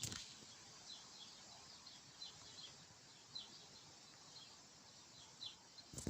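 Faint outdoor quiet with a bird chirping over and over: short, high, falling notes every half second to second, over a steady hiss. A sharp click near the end.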